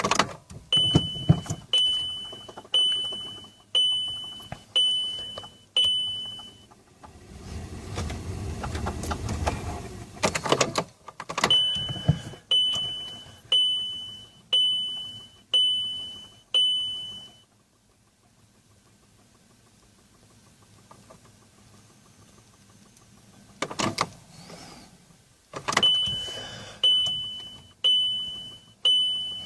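A car's dashboard warning chime beeps about once a second in runs of six or so. The beeping is broken by about three seconds of low, rough rumbling, later by a few seconds of near quiet, then by a couple of sharp knocks, before the beeping resumes.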